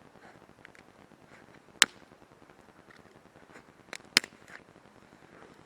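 Wood campfire crackling: scattered faint ticks with two loud sharp pops about two seconds apart, a smaller pop just before the second.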